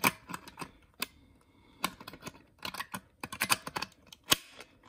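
Sharp, irregular clicks and taps of a spread retaining clip on the engine air filter housing being squeezed back closed, coming in clusters, with the loudest click near the end.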